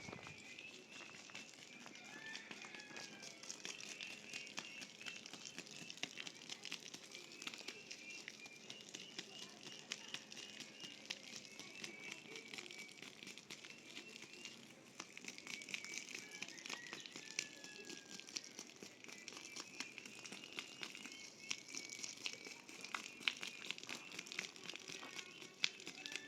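Dense, dry crackling and crinkling, with birds chirping in the background.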